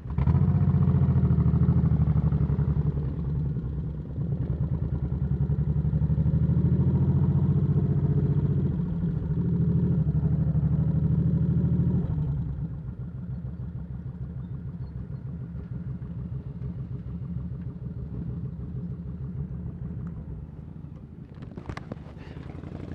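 Motorcycle engine running, loud for about the first twelve seconds, then dropping to a quieter steady run. A brief sharp sound comes near the end.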